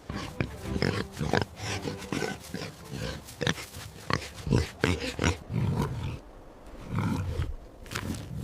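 Pig grunting: a quick, irregular run of short low grunts, several a second, with a few longer grunts near the end.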